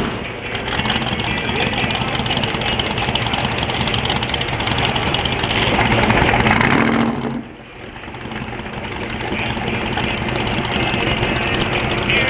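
Car engine idling steadily, dropping away briefly about seven and a half seconds in.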